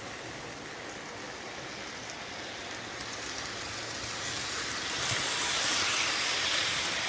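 Electric model train running on its track: a steady rolling hiss of wheels and motor that grows louder about five seconds in as the train comes closer, running smoothly.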